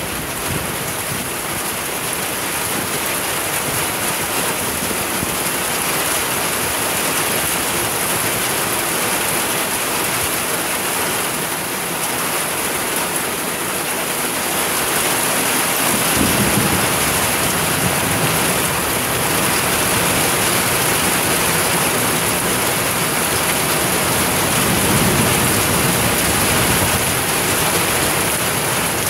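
Heavy rain pouring steadily onto pavement and yard, with a bright hiss. About halfway through, a low rumble of thunder joins it and swells again near the end.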